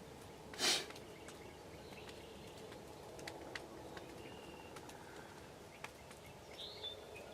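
Faint birds chirping in the distance over quiet rural background, with scattered faint clicks. About a second in, one brief loud scratchy burst stands out above everything else.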